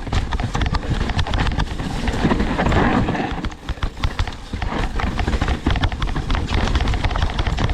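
Mountain bike rattling and clattering over a rough dirt trail at speed, with a rapid, uneven run of knocks from the tyres and frame over roots and rocks, and steady low wind rumble on the microphone.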